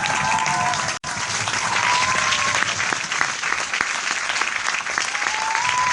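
Large audience applauding steadily: dense, continuous clapping from many hands, broken by a split-second gap about a second in.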